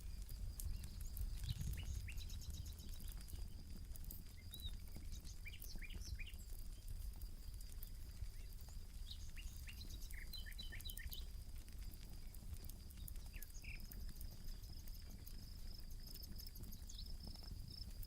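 Campfire crackling in small scattered pops, with birds giving short chirps in several bursts over a steady high insect trill.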